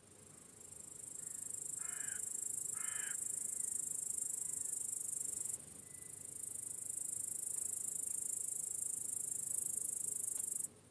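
An insect shrilling at a very high pitch in two long bouts, each swelling up and then cutting off suddenly, once about halfway through and again near the end. Two short harsh bird calls come about two and three seconds in.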